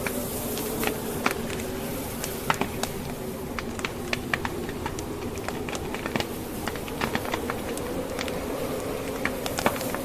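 Wood fire crackling in a fireplace, with irregular sharp pops of burning logs, over a steady, slightly wavering low howl of blizzard wind.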